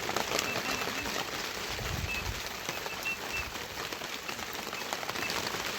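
Steady rain pattering down, with scattered short high chirps heard several times over it.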